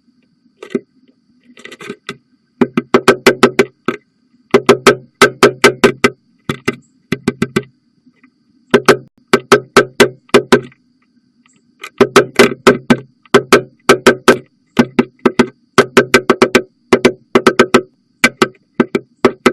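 Downy woodpecker pecking wood to excavate its nest entrance hole. It strikes in quick bouts of about six sharp knocks a second, with short pauses between bouts.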